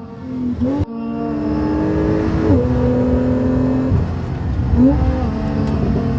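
Porsche 911 Targa 4 GTS's twin-turbocharged 3.0-litre flat-six accelerating: revs climb steadily, then drop sharply at an upshift about two and a half seconds in. The engine then runs steadily, with a brief dip and quick rise in revs near the end. A sharp click comes just under a second in.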